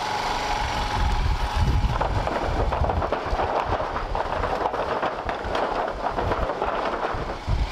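Royal Enfield Himalayan's single-cylinder engine running as the motorcycle rides along, heard through an uneven low rumble and crackle.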